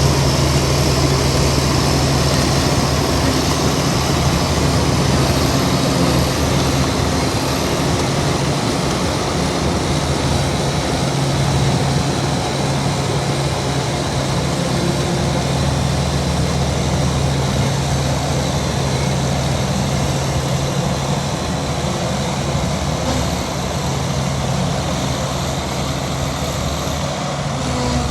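Heavy diesel engine of earthmoving machinery running steadily and loudly, with a constant deep drone and no change in pace.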